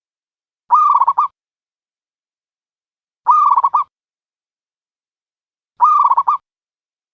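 A dove cooing, played as a trapping lure call: three identical short calls about two and a half seconds apart, each a rising first note running into a few quick pulsed coos.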